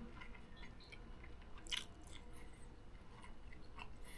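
Faint chewing of egg fried rice, with a few small scattered clicks and one slightly louder click a little under two seconds in.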